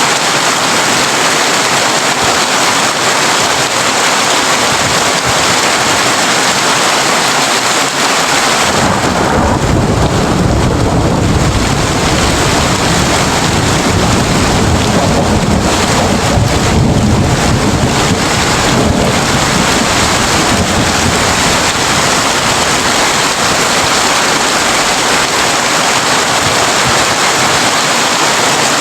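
Heavy rain drumming steadily on a tin roof. A low roll of thunder starts about a third of the way in and rumbles for roughly ten seconds before fading.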